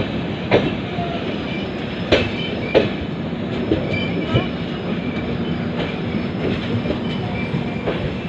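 Express passenger train running, with a steady rumble and the wheels knocking over rail joints, often in pairs of clacks about half a second apart.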